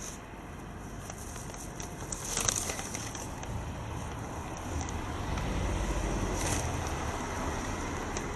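Street traffic noise with wind on the microphone. A motor vehicle's low rumble swells past about halfway through, and a brief sharp rattle comes about two and a half seconds in.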